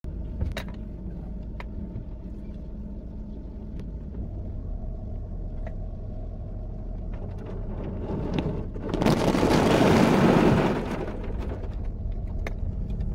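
Low, steady vehicle engine rumble heard from inside a waiting car, with a louder rush of noise lasting about two seconds near the end and a few faint clicks.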